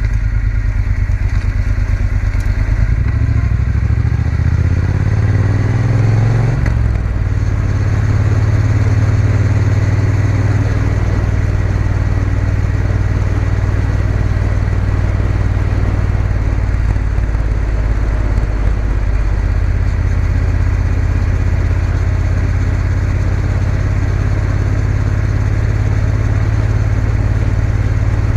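Triumph Bonneville T120 parallel-twin engine running under way on the move. Its note shifts a few seconds in, then holds steady at cruise.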